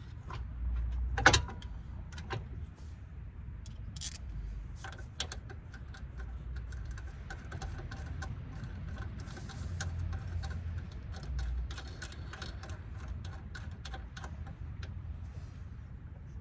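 Scattered metallic clinks and knocks of tools and parts being handled during suspension work on a car, with one louder knock about a second in, over a low steady rumble.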